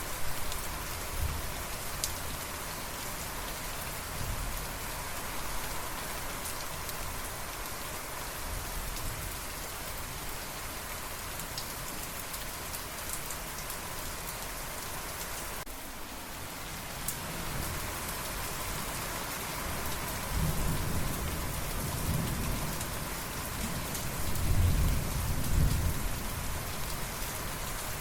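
Steady rain falling on a surface, with a low roll of thunder building up about two-thirds of the way through and peaking near the end.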